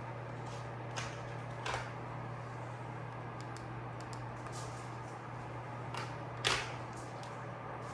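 Hampton Bay air-filtering ceiling fan motor running with a steady low hum, broken by three short sharp clicks.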